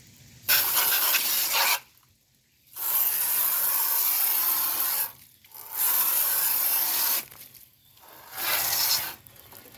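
Garden hose spray on jet setting blasting into a window air conditioner's blower wheel, a hissing rush of water. It comes in four bursts of one to two seconds each, stopping and starting.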